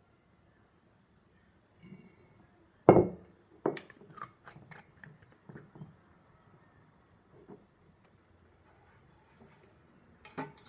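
Kitchenware being handled: one loud knock about three seconds in, then a run of lighter clinks and taps like dishes and utensils being set down and moved, with a last tap near the end.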